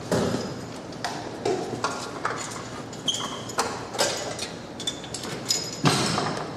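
Hand tools and metal engine parts clinking and clanking during engine assembly: a string of irregular sharp knocks, some with brief metallic ringing, over a busy shop background.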